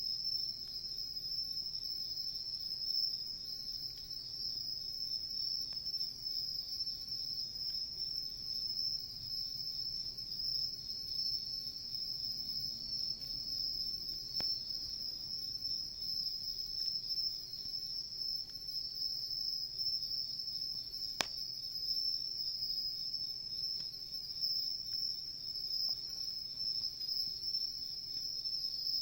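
Crickets chirring in a steady, unbroken high-pitched chorus, with two sharp pops from a wood campfire, a faint one about halfway and a louder one about two-thirds of the way through.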